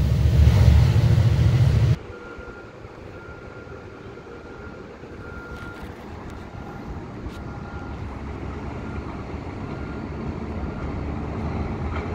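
EXO commuter train rumbling loudly as it passes and pulls away, cut off suddenly about two seconds in. A commuter train approaching from far off follows, its low rumble growing slowly louder.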